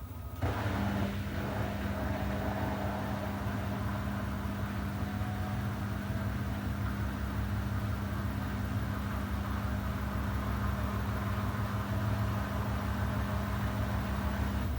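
Samsung WW90J5475FX Digital Inverter washing machine running during its rinse-and-spin cycle: a steady mechanical hum with a low rumble comes in about half a second in and holds evenly.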